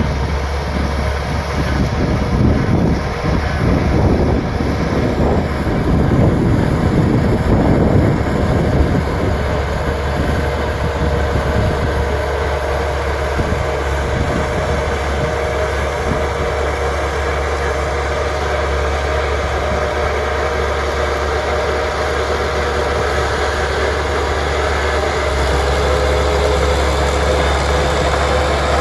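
Bulldozer's diesel engine running steadily, with a louder, rougher stretch in the first several seconds before it settles back to an even drone.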